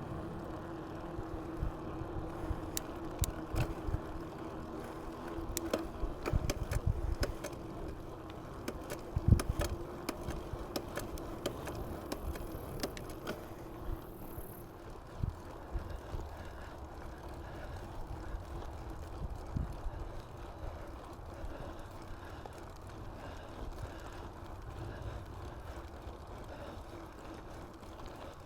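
Mountain bike rolling along: steady tyre and wind noise, with rattles and knocks over bumps through the first half and one heavier thump about nine seconds in.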